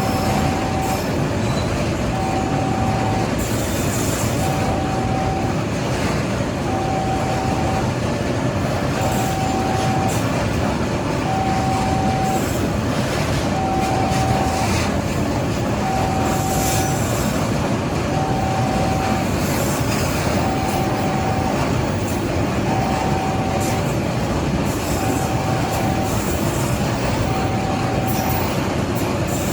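Freight train of empty fuel tank wagons rolling past with steady wheel-on-rail noise and some wheel squeal. A level-crossing warning alarm sounds a single steady tone, on for about a second, once every two seconds.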